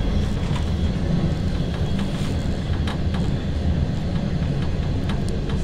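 Passenger train running through a tunnel, heard inside the rear end of the last coach: a steady low rumble of wheels on rail with short clicks and rattles every so often.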